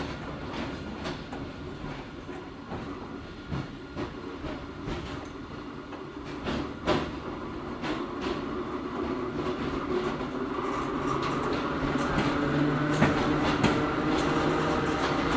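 Hakone Tozan Railway Moha 1 electric railcar with nose-suspended traction motors running, heard from inside the car: wheels clicking over rail joints, then about two-thirds of the way in a steady motor hum comes up and grows louder.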